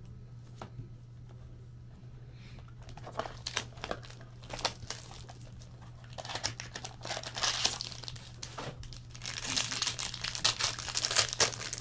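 A foil trading-card pack wrapper being torn open and crinkled. The crackling starts about three seconds in and gets denser and louder in the second half.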